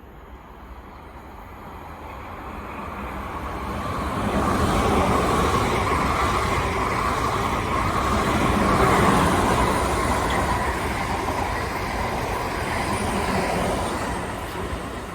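A passenger train running past on the line, its rumble and wheel noise building over the first four seconds or so, loudest about nine seconds in, then slowly easing off.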